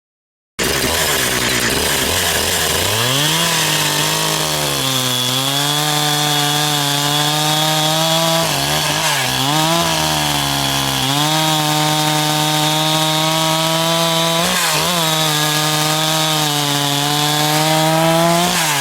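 Two-stroke chainsaw at full throttle cutting through wood. Its pitch sags under load several times, around 4, 9 and 15 seconds in, and recovers each time, then drops near the end as the throttle is let off.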